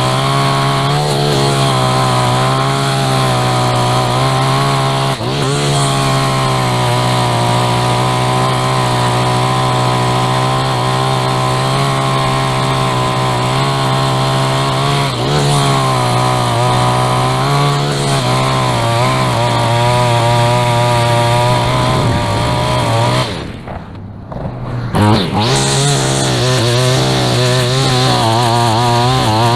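Handheld two-stroke lawn tool engine running near full throttle, its pitch wavering slightly as it meets grass and dirt. About three-quarters of the way through it drops off sharply for a second or so, then revs back up.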